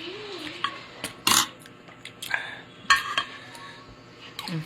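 Cutlery knocking against dishes: a few sharp clinks, the loudest about a second in and just before three seconds in.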